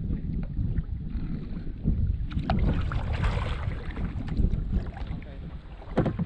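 Wind rumbling on the microphone, with a few sharp knocks; the loudest knock comes near the end.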